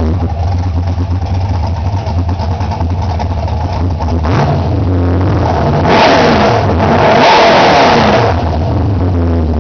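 1970 Chevrolet Camaro's V8 idling, heard at the tailpipes. It is blipped briefly about four seconds in, then revved up twice in quick succession for about three seconds, and drops back to a steady idle near the end.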